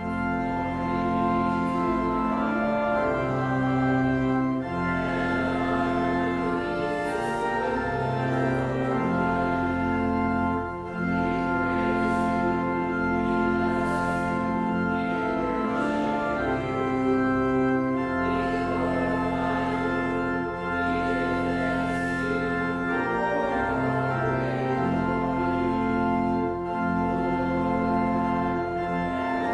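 Organ playing a hymn of praise in sustained, full chords that change every second or two.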